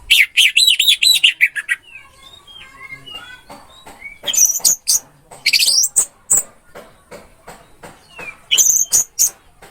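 Orange-headed thrush (anis merah) singing. It opens with a rapid warbled trill, then faint scattered notes, then loud high-pitched phrases around the middle and again near the end.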